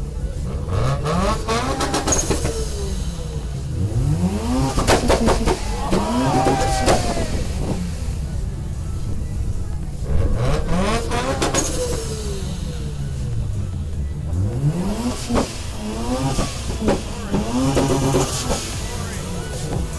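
Car engines revving in repeated throttle blips, each rising sharply in pitch and falling back, in several bursts over a steady low engine rumble.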